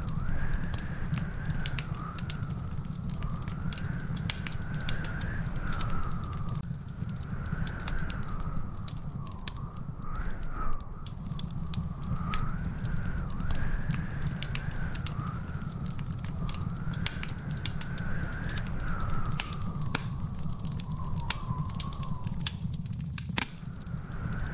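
Wood fire crackling, with frequent sharp pops and snaps over a low steady rumble. A faint wavering whistle rises and falls every couple of seconds throughout.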